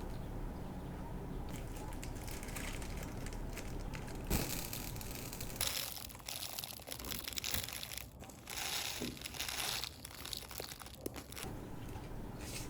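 Plastic bead packaging crinkling and rustling in several bursts, with a sharp crackle about four seconds in.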